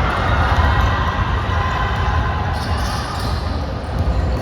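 Basketball game sounds on an indoor court: a ball bouncing during play, over a steady low rumble and faint voices.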